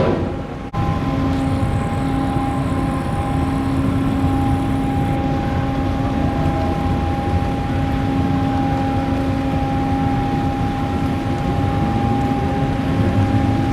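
Large car ferry's engines and machinery running with a steady, even drone and hum, a low rumble underneath.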